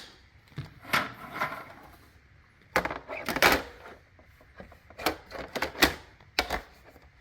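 Plastic parts of a robot vacuum's base station being handled, with a string of knocks, clicks and scrapes. The busiest clatter comes about three seconds in, with more knocks near the end.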